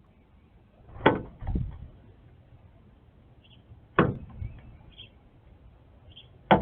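Northern cardinal hitting a window pane: three sharp thuds against the glass, about a second in, about four seconds in and near the end, the first two each followed by a softer knock.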